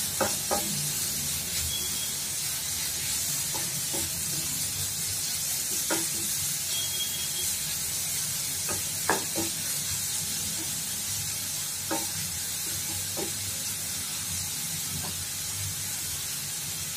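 Grated carrot and onion frying in oil on a low flame, with a steady sizzle. A spatula stirs them, knocking or scraping against the pan every few seconds.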